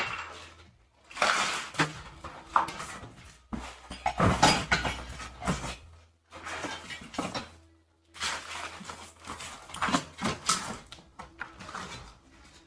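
Metal hardware parts being handled, clinking and clattering in irregular bursts, with some rustling of packaging.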